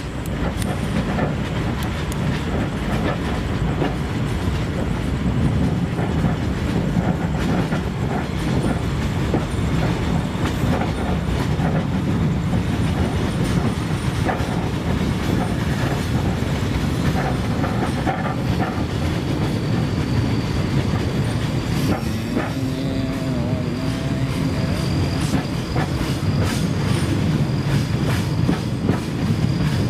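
Railway work train running on the rails: a steady rumble with wheels clicking over the rail joints, and a thin high wheel squeal coming in about twenty seconds in.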